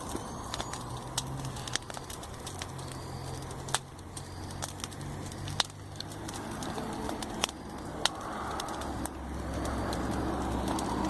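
Wood campfire crackling, with scattered sharp pops over a low rumble that swells toward the end.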